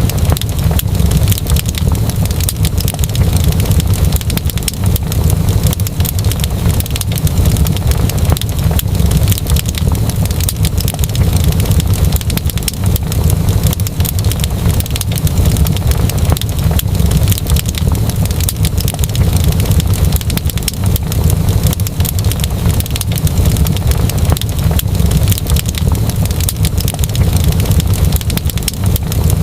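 Fireplace fire crackling: dense, irregular small pops and snaps over a steady low rumble.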